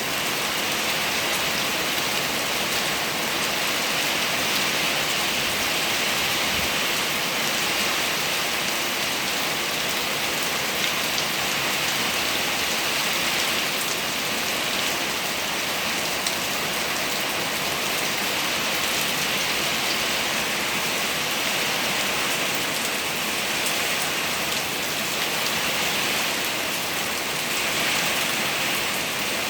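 Rain falling steadily, an even unbroken hiss of drops that neither builds nor eases.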